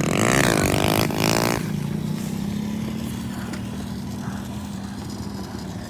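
A small pit bike engine running, revved up and down for about the first second and a half, then running steadily and slowly growing fainter.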